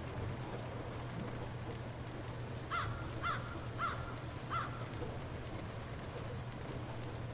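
Steady light rain, with a bird calling four short times in quick succession about three to four and a half seconds in.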